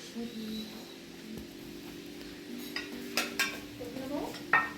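Dishes and cutlery clinking a few times over a low steady hum.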